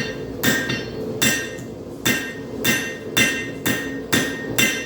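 Hand hammer striking a hot railroad spike on an anvil while forging a knife blade, about two blows a second. Each blow rings sharply.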